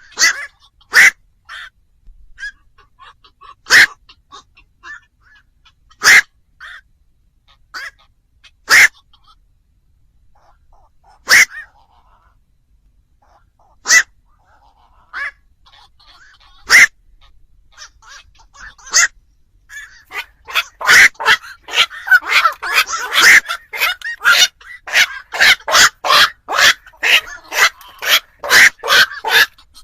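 Black-crowned night heron calls: single short, harsh croaks about two to three seconds apart, then from about twenty seconds in a fast, dense run of many calls.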